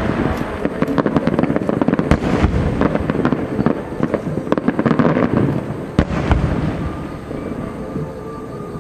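Fireworks display: a dense barrage of aerial shells bursting and crackling, with a heavy boom about six seconds in.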